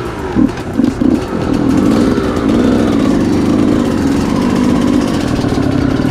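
Motocross bike engine firing in uneven bursts for about the first second, then catching and running steadily: a bike that had not been starting coming to life.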